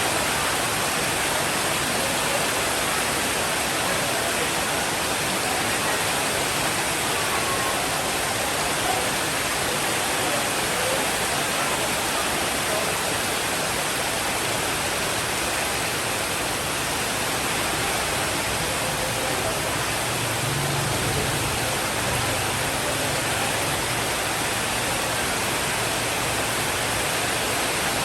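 Steady, even hiss of heavy rainfall. About two-thirds of the way in, a soft low rumble of distant thunder rises under it and fades near the end.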